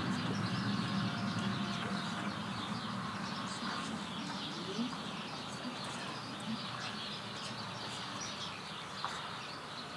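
Outdoor ambience of small birds chirping, many short calls, over a steady low rumble.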